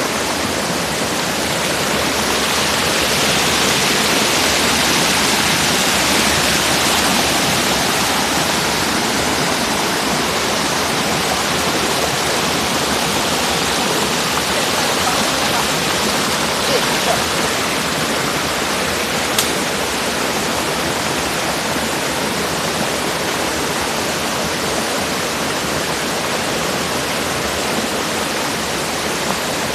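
Jungle waterfall crashing steadily into its pool: a dense, unbroken rush of falling water.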